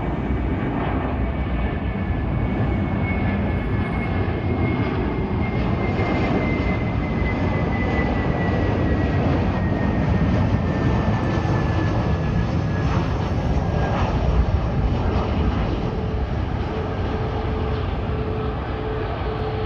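Jet airliner passing by, its engines a steady rushing noise with a thin whine that slides slowly down in pitch as it goes past, loudest about three quarters of the way through.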